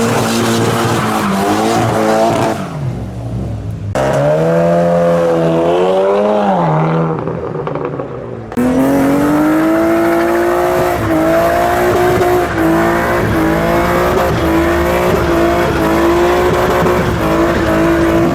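Car engine revving, rising and falling, then held at steady high revs for the last ten seconds, with tyres squealing.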